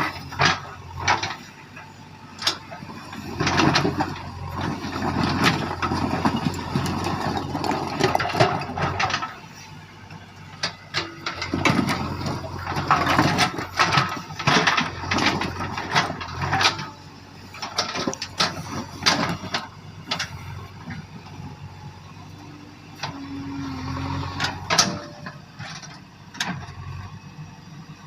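JCB backhoe loader's diesel engine running steadily, with repeated clanks, knocks and scraping as the machine digs out and shifts stones, loudest in two long spells.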